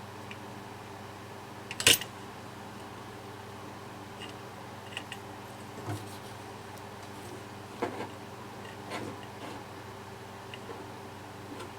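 Small parts and tools being handled on a bench: one sharp click about two seconds in, then a few lighter taps and clicks, over a steady low hum.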